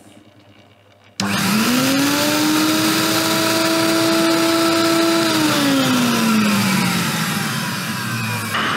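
Vacuum suction motor of a Pro-Ject manual record-cleaning machine switching on about a second in and running loudly, sucking the cleaning fluid off the record. Its humming whine rises in pitch as it spins up, holds steady, then drops in pitch a little past halfway.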